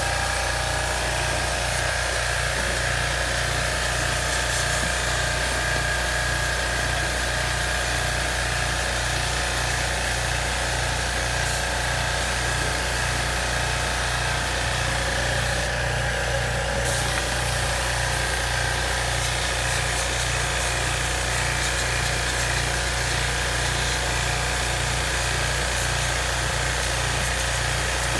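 Washing pump motor running steadily with an even low pulsing, over the hiss of water spray from the wash nozzle during air-conditioner fin and blower-fan washing. The hiss briefly drops out about two-thirds through.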